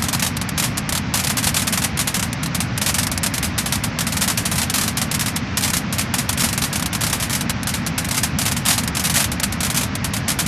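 Wood fire burning in a fireplace, crackling and popping densely and without a break.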